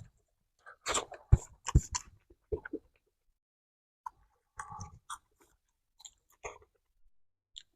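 Close-up chewing of crunchy roasted cicadas: a run of crisp crunches in the first few seconds, a short pause, then slower, softer chewing.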